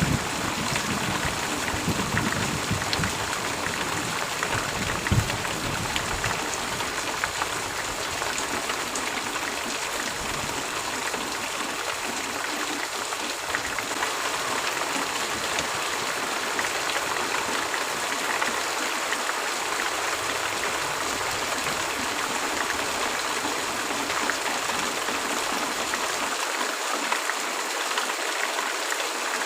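Heavy rain falling steadily as an even hiss. A low thunder rumble dies away over the first several seconds.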